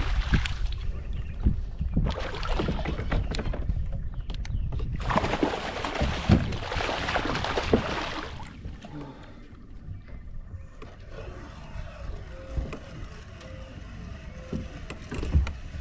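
Noise and knocks from aboard a fishing kayak on the water, louder for about the first eight seconds, then quieter.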